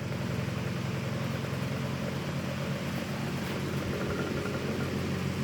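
Antique 12-inch Emerson desk fan running on medium speed: a steady motor hum with a fast flutter. It is pretty noisy because its bearings have no oil.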